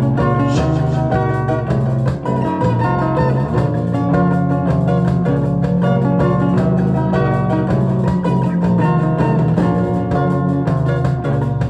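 Instrumental music led by a plucked guitar playing a quick stream of notes over a steady, full low part.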